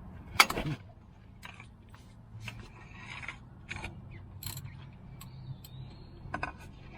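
Wrench working at the stubborn 22 mm hydraulic oil drain plug on a John Deere 5310 tractor. It makes scattered metallic clicks and knocks, with one sharp, loud crack about half a second in.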